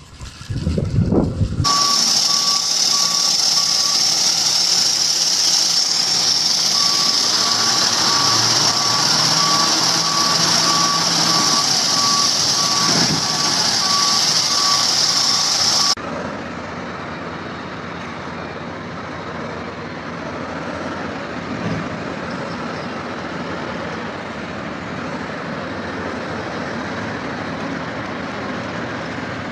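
A heavy machine's reversing alarm beeping in a steady, evenly spaced series over loud engine noise and a high-pitched hiss. About halfway through, the sound cuts abruptly to a quieter, steady heavy-machine engine running.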